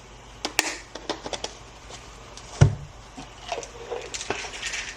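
Vitamin bottles handled on a hard surface: small clicks of caps and containers, one louder knock about two and a half seconds in, and a quick run of small clicks near the end as gummies are shaken out.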